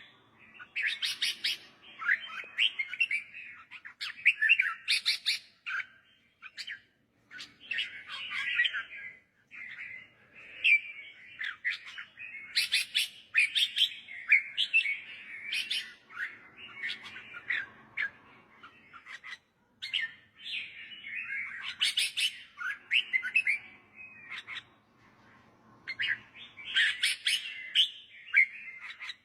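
Red-whiskered bulbul singing: short phrases of quick, bright chirps and whistled notes, repeated every second or two with brief pauses between them.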